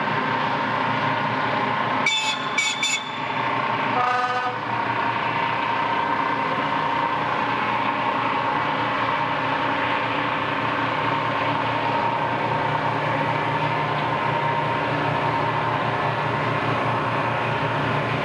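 Steady drone of a tugboat's diesel engine, with a few brief sharp high-pitched sounds about two seconds in and a short horn blast about four seconds in.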